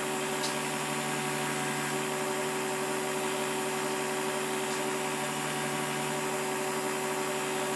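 A steady machine hum with a hiss, unchanging throughout.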